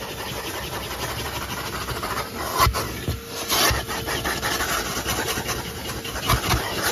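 1997 Numatic Sir Henry vacuum cleaner running steadily while its nozzle rubs and scrapes over the car's interior, with a few knocks of the tool against surfaces.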